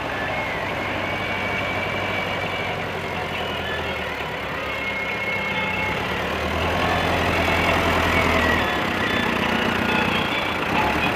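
Massey Ferguson tractor's diesel engine running steadily, getting a little louder about six and a half seconds in.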